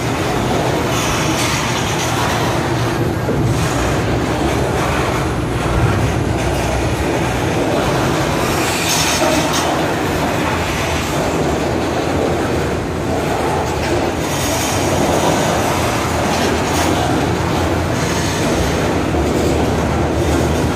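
Freight train of covered hopper cars rolling past close by: a steady loud rumble and clatter of steel wheels over the rails, with a few brief rises of high-pitched hiss.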